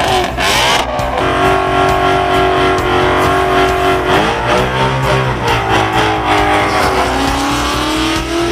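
Performance car engine accelerating hard, its pitch climbing, dropping back about four seconds in as it shifts gear, then climbing again.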